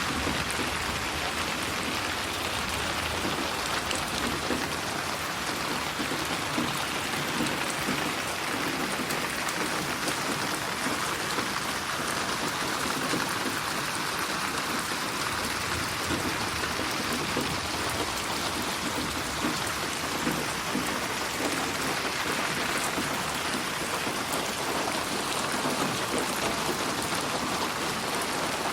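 Steady rain falling, a dense even hiss with many fine drops pattering on a surface, processed as 8D audio so it pans around the listener.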